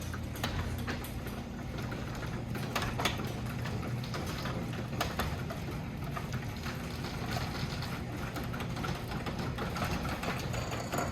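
Overhead Door Legacy garage door opener running, raising a wooden sectional garage door along its one-piece rail. A steady motor hum with a slight buzz, with scattered clicks and rattles from the trolley and door.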